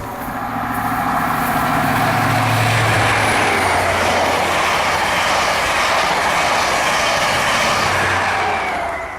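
Train passing close by at speed: a loud, steady rush of wheel and air noise over a low engine hum, cut off abruptly near the end.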